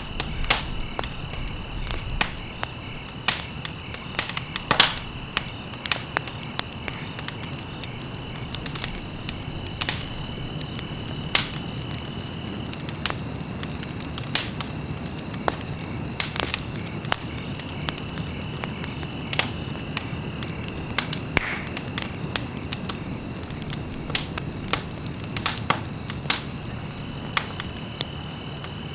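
Wood fire crackling, with irregular sharp pops and snaps over a steady low rustle of flames. A thin, steady high tone runs behind it and drops out for much of the middle.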